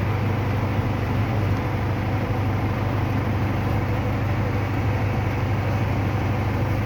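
Heavy rain falling, a steady rushing noise with a deep low rumble underneath.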